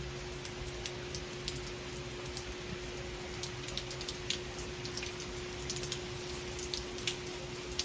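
Heavy rain falling steadily, with many sharp, close drop strikes scattered through it.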